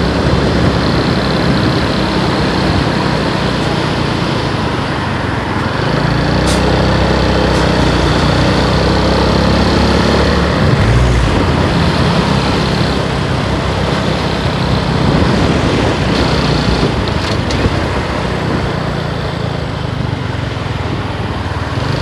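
Small motorcycle running flat out near its top speed of about 95 km/h, with wind and road rush over a steady engine drone. The engine note grows stronger about six seconds in.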